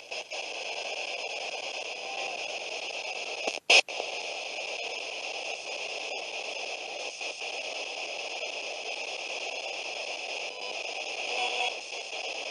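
Spirit box radio sweeping through stations: a steady hiss of static, broken by many brief cut-outs, with one sharp loud crackle a few seconds in.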